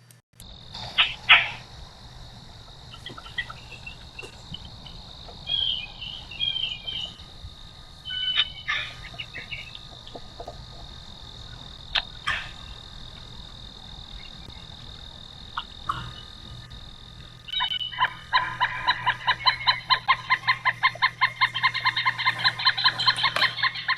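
Pileated woodpecker calling: a long, fast series of loud, evenly repeated notes, about five a second, that starts about two-thirds of the way in. Before it there are scattered short chirps, and a steady high-pitched drone runs under everything.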